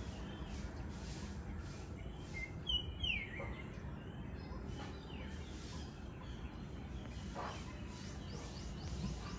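Outdoor ambience ahead of a thunderstorm: a steady low background rumble with scattered short bird chirps, the loudest two quick falling calls about three seconds in.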